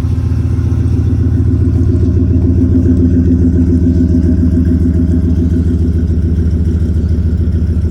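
The 6.0-litre V8 of a 2003 Silverado 1500HD idling through true dual exhaust with Flowmaster mufflers, a steady low burble, still warming up from a cold start. It gets slightly louder for a couple of seconds about two seconds in, then settles.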